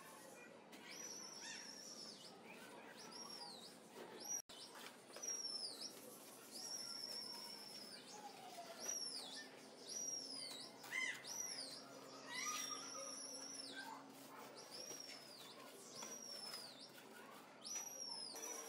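A small bird chirping over and over: high, clear, curved calls about once a second, with a longer wavering one near the middle. Beneath the calls there is faint scraping and tapping of a steel trowel working wet cement.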